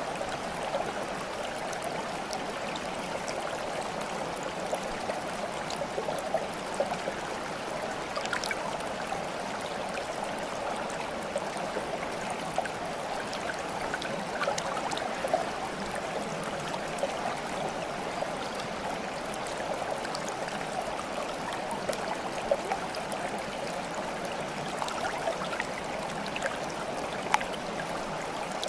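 Water flowing in a stream, a steady babble with scattered brief sharper drips, one louder near the end.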